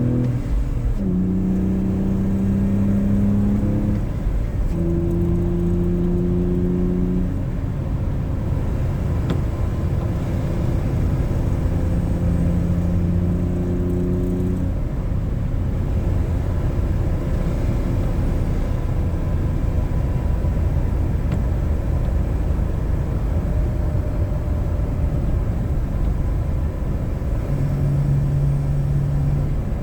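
BMW E46's inline-six engine, fitted with a K&N intake, running at steady part-throttle revs while driving, over a constant rumble of road and tyre noise. The engine note holds steady, then shifts to a new pitch several times, as with throttle or gear changes.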